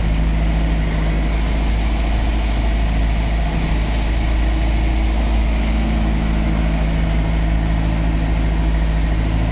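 Riverboat's engine running steadily, a constant loud low rumble with a hiss of rushing air and water over it.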